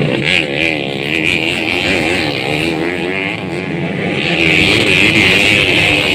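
Several racing dirt bike engines revving up and down, their pitch rising and falling quickly as they race, growing louder about four seconds in.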